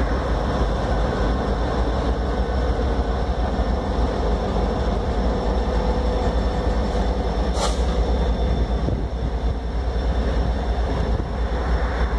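Passenger train passing: two diesel locomotives pulling away, then coaches rolling steadily along the rails, with a steady low rumble. A single sharp click comes a little past the middle.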